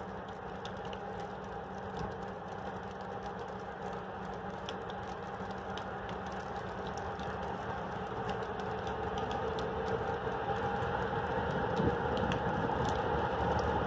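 Electric locomotive hauling a freight train slowly past, a steady hum and rumble growing gradually louder, with faint scattered ticks.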